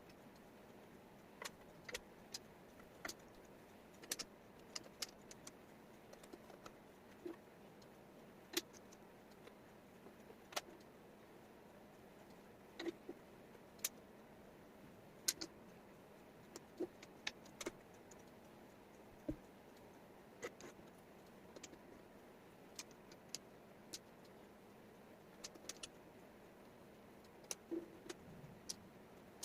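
Wooden jigsaw puzzle pieces clicking and tapping as they are picked up and set down: irregular sharp clicks, some in quick pairs, about one every second or two, over a faint steady hiss.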